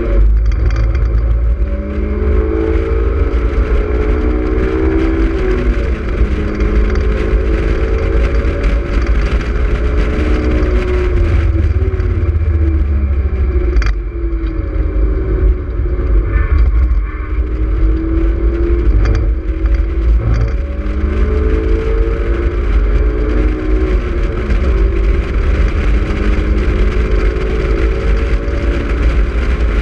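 Honda S2000's four-cylinder engine under hard acceleration through the gears, its pitch climbing and falling back again and again at each shift. Heard from the open-top cockpit over a heavy low wind rumble.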